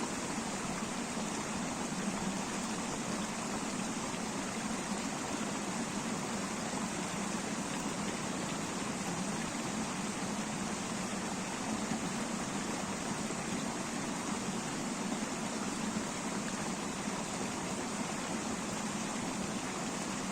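River water flowing steadily, a continuous even rush of water with no breaks.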